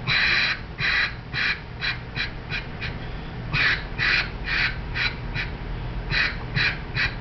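Hand-blown duck call sounding strings of separate quacks, each cut off cleanly with the tongue rather than slurred together. There are two strings, with a short pause about three seconds in; the first opens with a longer quack and the notes grow shorter and quicker.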